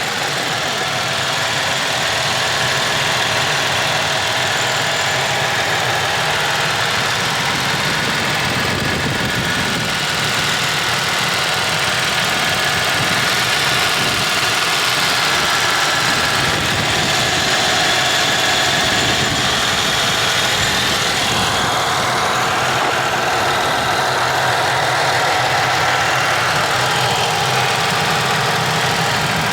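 A car engine running steadily at idle, just after a jump start of a car with a dead battery.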